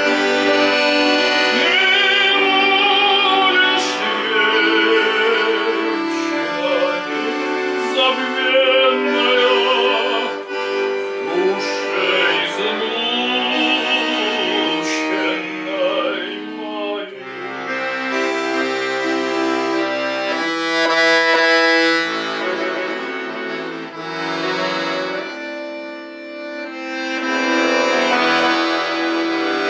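Accordion music, with a melody in strong vibrato wavering above it through the first half, then sustained accordion chords.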